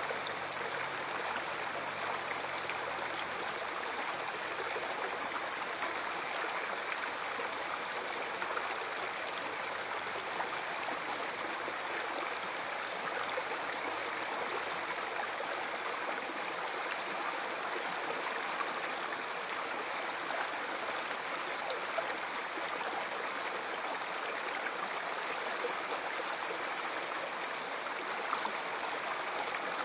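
A river stream flowing and splashing steadily over rocks, an even rushing of water with small gurgles.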